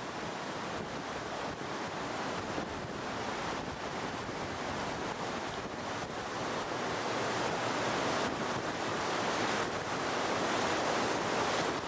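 Heavy storm surf breaking along the beach, mixed with strong wind buffeting the microphone, a dense steady rush that grows louder over the last few seconds.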